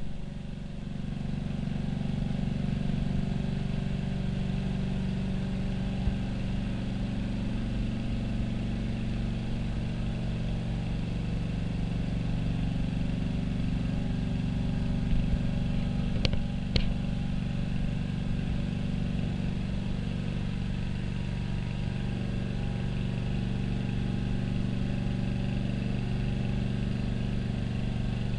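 A steady engine drone holding an even pitch, with two faint clicks a little past halfway.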